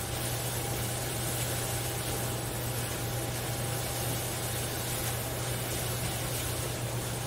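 Minced onion and garlic sautéing in butter in a stainless steel pan, an even sizzling hiss over a constant low hum.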